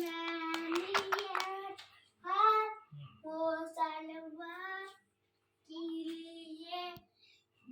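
Male ringneck parrot vocalizing in its talking voice: four drawn-out phrases on a fairly level pitch, not clear words.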